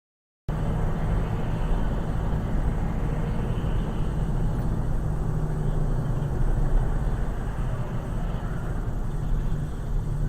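Steady low rumble of a car driving, road and engine noise heard from inside the cabin through a dash camera's microphone, starting abruptly about half a second in after total silence.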